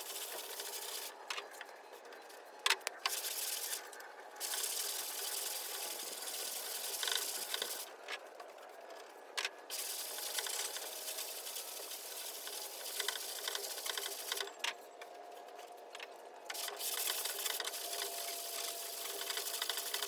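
220-grit sandpaper on a long hand sanding block rasping over a primed truck body panel in back-and-forth strokes, sanding off the dry guide coat. The rasping stops for a second or two a few times, with a few light knocks.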